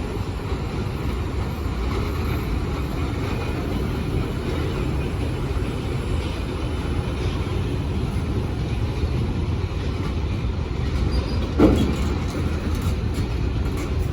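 A train running on the tracks with a steady low rumble of wheels and rails. Near the end comes one brief, louder, sharper sound.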